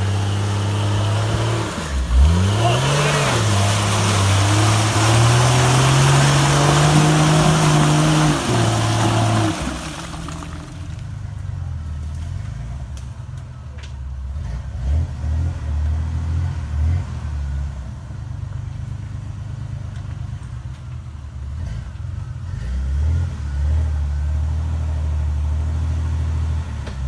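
Lifted 4x4's engine revving hard as it drives through deep mud, its pitch rising and falling as the throttle is worked. About ten seconds in the revving drops off, and the engine runs on at a low, steady idle.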